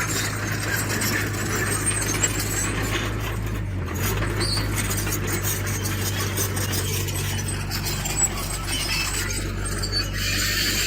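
A tracked earthmoving machine's diesel engine runs steadily, with frequent metallic clanking and squeaking from the steel crawler tracks and working parts. The engine note dips briefly about four seconds in, as if under a change of load.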